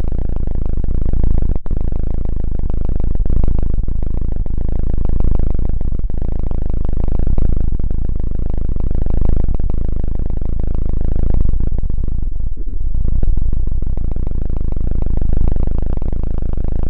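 Loud, low rumbling noise from an ASMR trigger worked right against a binaural dummy-head microphone, swelling about every two seconds, with two brief dropouts.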